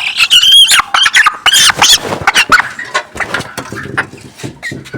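Broiler chickens squawking loudly in repeated shrill calls that rise and fall, the distress calls of birds being caught and handled for weighing; the calls thin out in the last couple of seconds.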